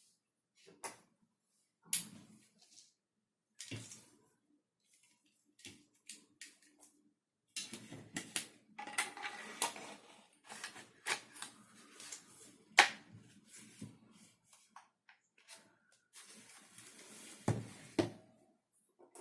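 3D-printed plastic gun parts being handled and fitted together: irregular clicks and knocks with short stretches of scraping and rattling, and one sharp click about thirteen seconds in.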